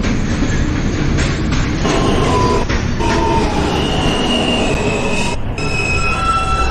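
New York City subway J train rumbling over the rails and slowing, with its wheels and brakes squealing in several high held tones through the second half as it comes in to a stop.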